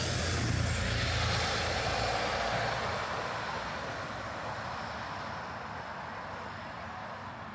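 A motor vehicle passing on a city street, its engine rumble and tyre noise loudest in the first couple of seconds, then fading into steady background traffic.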